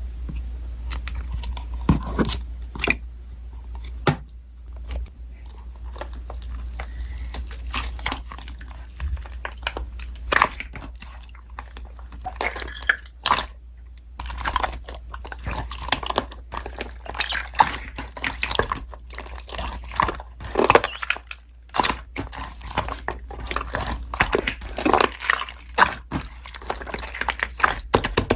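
Slime being squeezed, stretched and poked by hand, giving irregular wet clicks, pops and crackles, over a steady low hum.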